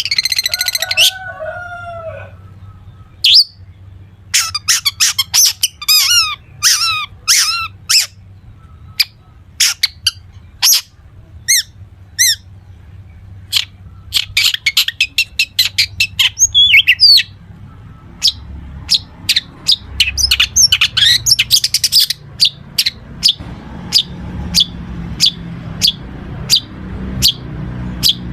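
Long-tailed shrike (cendet) singing a loud, varied song of sharp chattering notes and quick sweeping phrases mixed with mimicked calls of other birds, in bouts with short pauses. In the last third it settles into a string of single sharp notes, about two a second.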